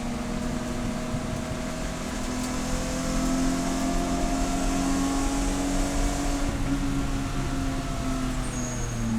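Race car engine running at fairly steady revs under way. Its pitch and loudness rise gently about three seconds in and ease back down over the last few seconds.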